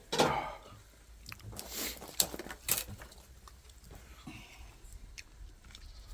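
Close-up eating sounds: a person chewing and slurping, with a few sharp clicks of utensils against a bowl.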